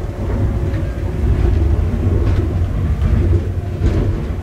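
Passenger train running along the line, heard from inside the carriage: a steady low rumble of wheels on rail.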